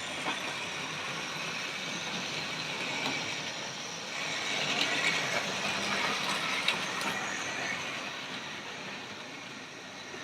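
Hornby OO-gauge model train running round the track, its small electric motor whirring and wheels clicking over the rail joints; it grows louder for a few seconds in the middle as it passes close, then fades away.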